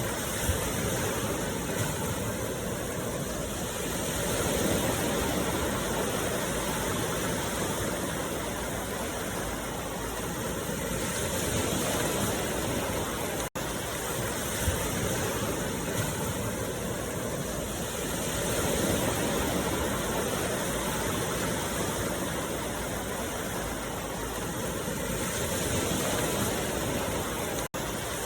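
Steady rushing noise from a looped meditation sound track, swelling and easing slowly every several seconds, with a brief dropout where the loop restarts about halfway through and again near the end.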